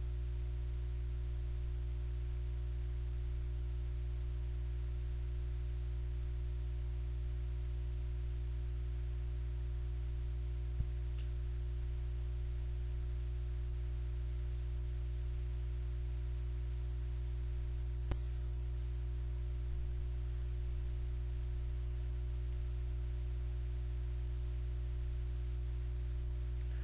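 Steady low electrical hum with a stack of even overtones, broken by two short clicks, one about eleven seconds in and one about eighteen seconds in.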